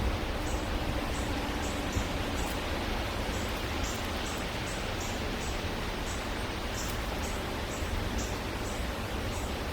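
Steady outdoor hiss with short, high chirps repeating irregularly about twice a second.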